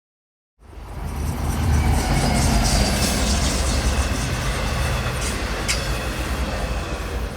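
Interior noise of a New York City subway 7 train in motion: a steady low rumble with a hiss of rushing air, starting abruptly about half a second in, and two sharp clicks past the middle.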